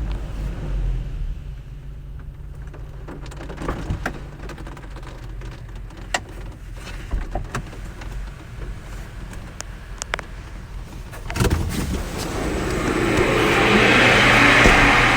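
Touchless car wash equipment running: a steady low hum with scattered clicks and knocks, then a thump about eleven seconds in and a loud, even hiss that builds up near the end.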